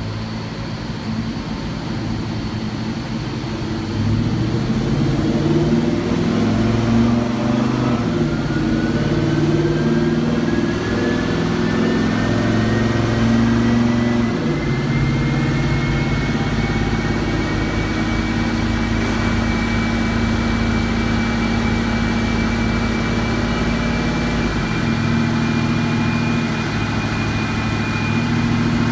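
Dodge Challenger SRT8's Hemi V8 running under load on a chassis dyno, on a run where the owner says it is running rich with the knock sensors pulling timing. The engine note changes pitch in steps about 4, 14 and 25 seconds in, getting louder at the first step, and a thin whine rises over several seconds and then holds steady.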